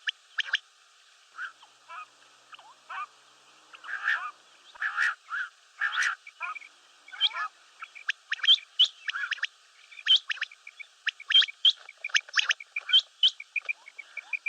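Common quail calling over and over: many short, sharp notes and chirps, coming thicker and louder in the second half, with a quick run of soft, even ticking notes underneath.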